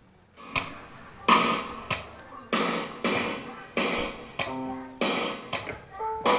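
Roland E-36 arranger keyboard playing a drum rhythm pattern, with a hit about every 0.6 s and a short held chord near the middle.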